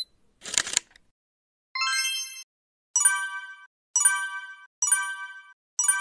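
Editing sound effects: a short swoosh, then a chime and four bell-like dings about a second apart, each ringing briefly and fading, as on-screen labels pop up.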